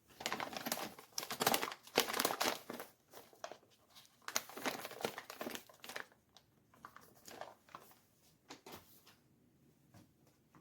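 Crinkling and rustling of something being handled, in dense irregular bursts that thin out to occasional faint ones after about six seconds.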